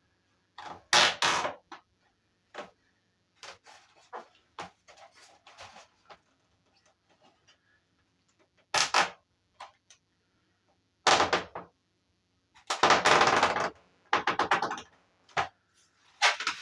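Irregular knocks, clunks and scraping from handling a new washing machine while setting about fitting it, with the loudest bursts about a second in, around nine seconds and in a run between about eleven and fifteen seconds.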